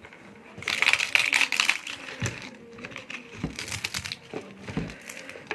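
Close-up crunching and chewing of a crisp papad: crackling bites about a second in and again near the middle, with softer chewing between.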